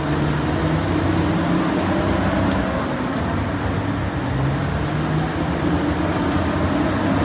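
A motor-vehicle engine running steadily with a low, even hum, most likely the engine sound laid over a toy forklift.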